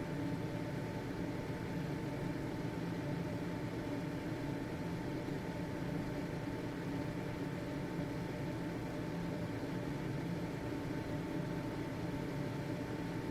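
Household ventilation fan running steadily: an even rush of air over a motor hum, with a thin steady tone around 900 Hz and no changes in speed.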